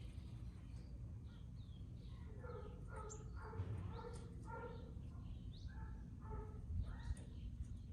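A dog barking, a run of about nine barks in the middle, while small birds chirp and a steady low rumble runs underneath.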